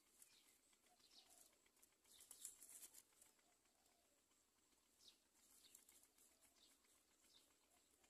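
Faint bird chirps: scattered short high notes that fall in pitch, with a brief soft rustle of dry nest grass about two seconds in.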